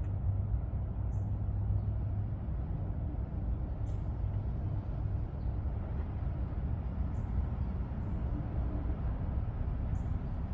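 A steady low rumble with faint, short high chirps every second or two.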